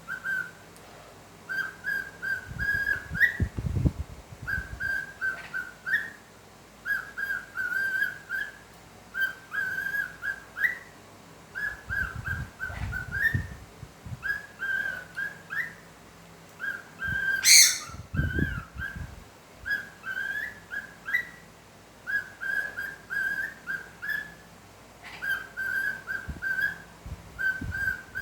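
Pet parrot whistling the same short tune over and over: quick runs of notes that end in an upward flick, about one phrase every two seconds. A sharp click comes about seventeen seconds in, with a few low thumps here and there.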